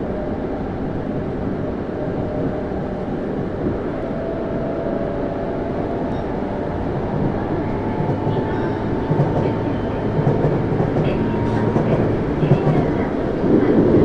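Tokyu Series 9000 electric train running, heard from inside a motor car: a continuous rumble of wheels on rail with a faint whine from the Hitachi GTO-VVVF traction equipment. The sound grows louder over the last few seconds.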